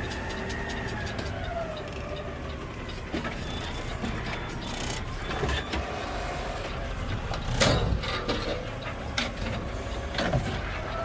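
Garbage truck running, heard from the cab: a steady low rumble with rattles and knocks, a whine falling in pitch in the first two seconds, and one loud clunk about seven and a half seconds in.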